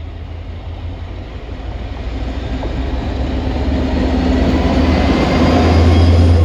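Train approaching on the line, a low rumble with a rush of wheel noise that grows steadily louder, loudest near the end.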